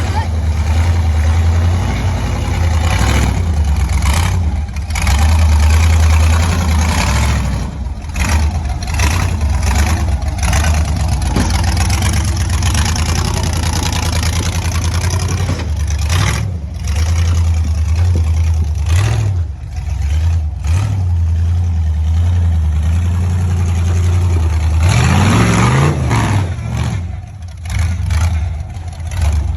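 An engine running steadily with a heavy low rumble, revving up and back down about twenty-five seconds in.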